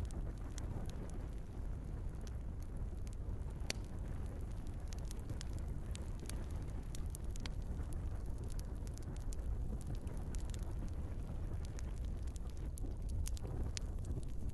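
Wood fire burning in a fireplace: a steady low rumble of flames with frequent sharp crackles and pops of burning logs, one louder pop a few seconds in.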